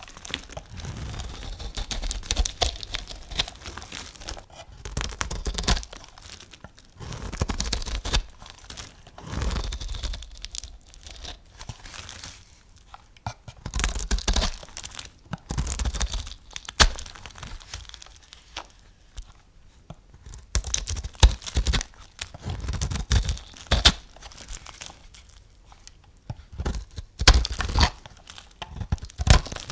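Knife cutting through soap in repeated strokes, each a crisp, crunching scrape, with a few sharp clicks among them.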